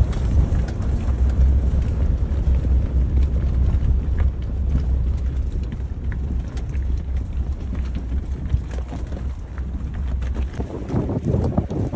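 Steady deep rumble of the Chevy Silverado pickup on the move, with wind buffeting the microphone. The rumble eases near the end.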